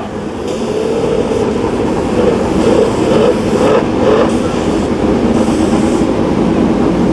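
Drag-racing motorcycle engines running loud and steady at high revs, with a wavering pitched drone.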